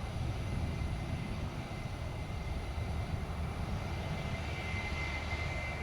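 Steady low rumble of jet airliner engines.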